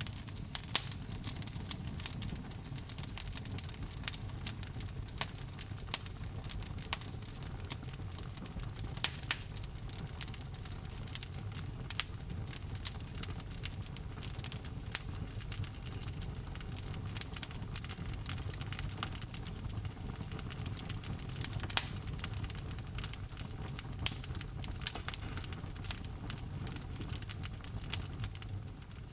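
Wood fire burning in a fireplace, crackling, with frequent sharp pops over a steady low rumble of the flames.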